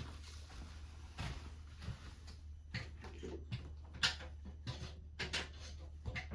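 Scattered light clicks and knocks from handling a motorcycle as it is readied for a start, over a low steady hum; the engine is not running.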